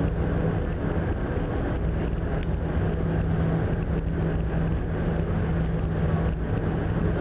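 Steady drone of the passenger ferry Ogasawara Maru's engines, a constant low hum under a rushing noise of wind and sea.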